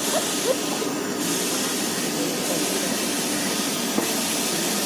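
Railway platform ambience: a steady hiss with faint crowd chatter beneath it.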